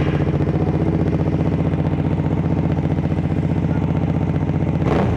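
Hyosung GV650's V-twin idling loudly and steadily through a custom-made aftermarket exhaust, moments after starting, with a fast, even pulsing beat.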